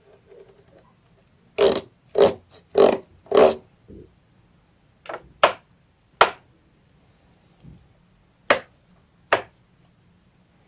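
Hands handling packaging or plastic parts, making short, sharp rubbing and crinkling noises. There are four quick ones in a row about two seconds in, then several single ones spaced out.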